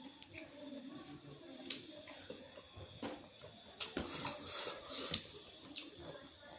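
Close-up eating sounds: chewing with small wet clicks, and a few louder bursts between about four and five seconds in.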